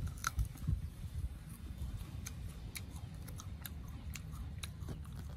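Mouth chewing crisp raw fruit pieces, a run of irregular sharp crunching clicks.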